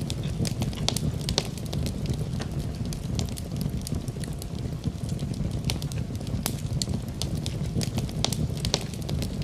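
Fire burning in a fireplace: a steady low rush of flames with frequent irregular sharp crackles and pops.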